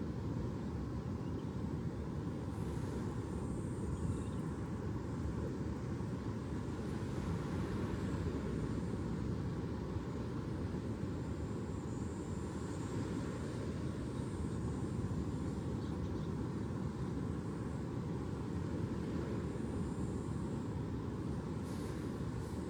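Steady low rumbling noise, even and unbroken, with no distinct events.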